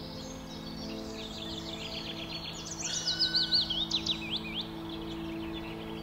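Small birds chirping and singing, with a louder phrase of fast rising-and-falling notes about three seconds in, over a steady low drone.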